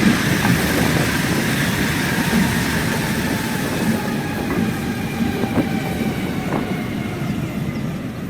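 A train running on the rails with occasional wheel clicks, its sound slowly fading as it moves away.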